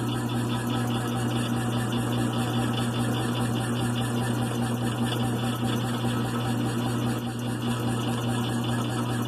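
1928 USACO belt-driven air compressor running steadily on its freshly rebuilt and oiled 220-volt single-phase electric motor: a constant hum with a fast, even mechanical clatter over it.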